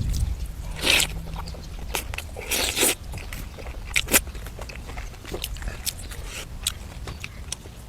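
A person eating close to the microphone: chewing with scattered crunchy clicks, and two louder crunching bites, about a second in and near three seconds.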